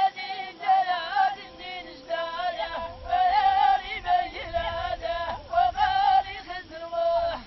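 Ahidous singing: voices chanting a wavering, ornamented Amazigh melody in short phrases about a second long, with no drum beats heard.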